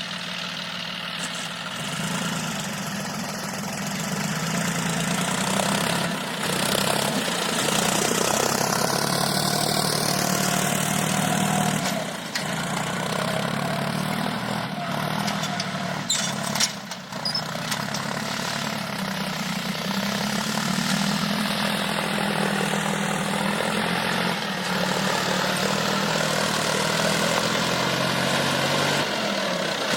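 John Deere 5050E tractor's three-cylinder diesel engine running under steady work, its pitch wavering slightly. It grows louder about two seconds in and drops off briefly twice midway.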